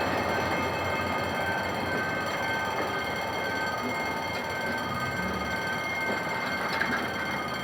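Diesel-hauled passenger train rolling past as it pulls away, a steady rumble of wheels on track that slowly fades. Several thin steady high tones ring above the rumble.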